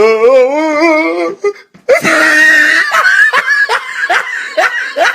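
Sound-effect clips: a drawn-out, wavering vocal sound, then a short gap and a loud noisy burst about two seconds in, followed by a run of repeated short bursts of laughter.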